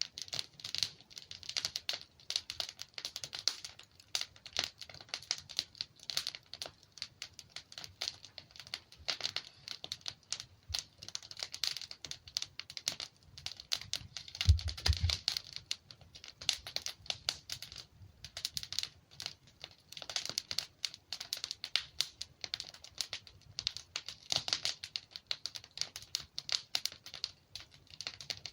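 Wood fire crackling and popping steadily as logs burn, with dense irregular snaps and a brief low thump about halfway through.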